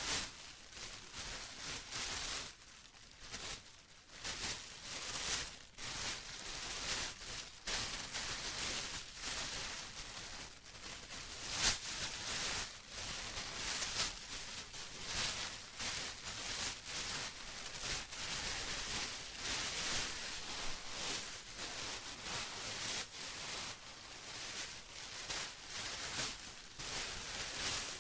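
Plastic being rustled and crinkled continuously, in an irregular stream of crisp, hissy crackles.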